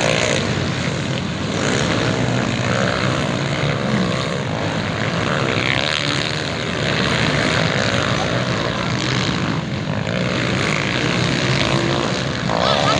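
Several motocross motorcycles running on the track, their engines revving and changing pitch as they race.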